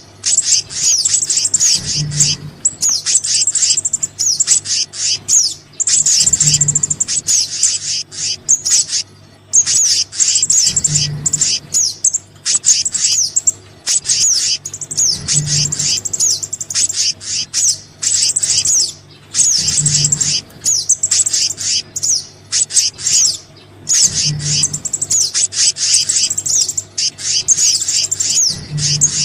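Bird-lure recording of small birds, sogon and kehicap calls combined, playing as dense rapid high-pitched chirping and twittering. A short low pulse repeats about every four and a half seconds under the calls, as the track loops.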